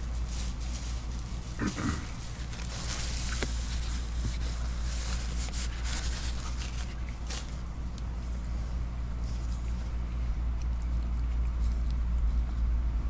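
Close-up eating sounds: a man chewing and smacking food near the microphone, with light clicks of a plastic fork against a plastic tub. A steady low hum runs underneath.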